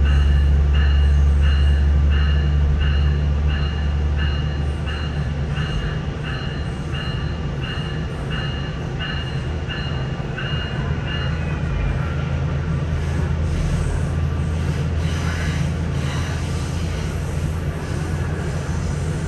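Steady low drone of a SMART Nippon Sharyo diesel multiple unit running, heard from inside the car, with wheel-on-rail rumble; the drone eases off about four seconds in. Over it a railroad grade-crossing bell dings about one and a half times a second, dropping in pitch and fading out about eleven seconds in as the train passes it.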